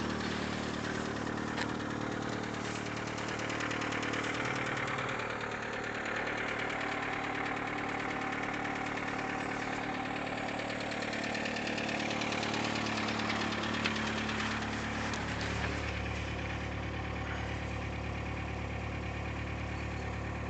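VW Passat's 1.9 TDI four-cylinder turbodiesel idling steadily a couple of minutes after a cold start at −20 °C.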